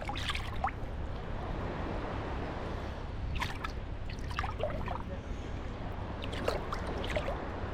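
Small sea waves washing and sloshing at the shore of a beach, a steady wash of water, with brief snatches of people's voices a few times.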